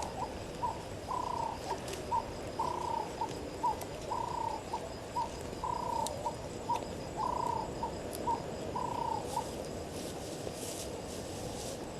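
A bird calling a repeated two-note phrase, a longer slightly falling note followed by a short one, over and over at a steady pace; it stops about nine and a half seconds in. Faint steady high-pitched insect-like tones run underneath.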